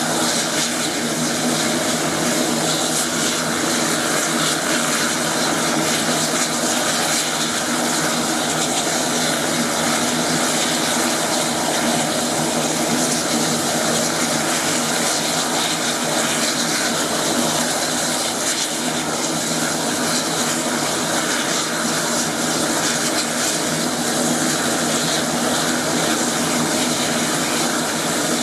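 Air Tractor 802 agricultural plane's turboprop engine and propeller running steadily at constant power, with a steady drone and hiss that neither rises nor falls.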